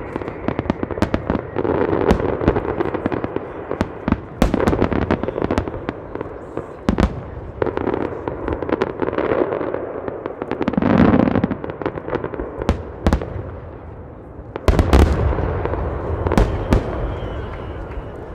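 Fireworks display: a steady run of sharp cracks and bangs over a continuous crackling wash, with a louder swelling burst about eleven seconds in and a dense volley of cracks a few seconds later.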